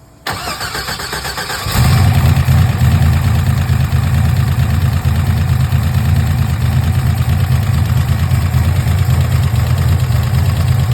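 First start of a freshly built turbocharged Buick 3.8 V6 (girdled stock-stroke 109 block) on E85: the starter cranks for about a second and a half, then the engine catches and runs at a steady, loud idle.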